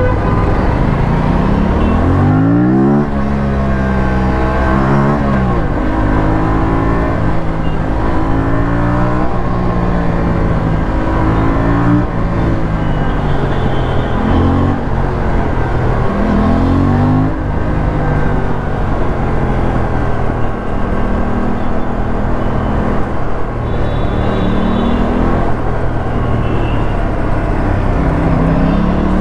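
Aprilia RS457's parallel-twin engine on the move, revving up and falling back again and again as the bike accelerates and eases off, its pitch climbing and then dropping several times.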